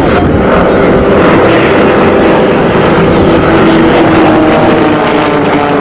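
Propeller aircraft engine running loud and steady, its tone falling slightly in pitch past the middle as the plane passes.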